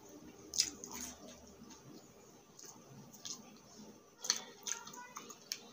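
A person chewing crispy fried egg chicharon chips, close to the microphone: sharp crunches about half a second in, a few scattered ones after, and a denser run of crunching near the end.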